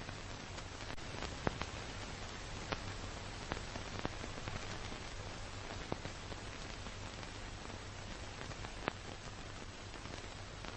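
Steady hiss and low hum of a car in motion, with scattered sharp ticks every second or so.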